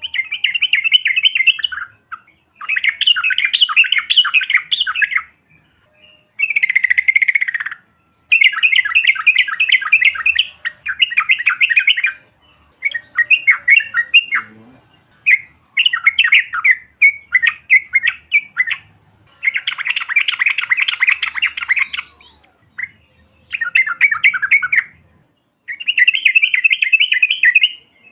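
Yellow-vented bulbul (trucukan) singing: loud, rapid, bubbling chattering phrases of one to two seconds each, repeated about a dozen times with short pauses between them.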